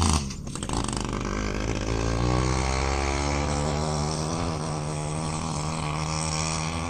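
Dirt bike engine running as the bike rides off, its pitch rising a little about two seconds in and then holding fairly steady.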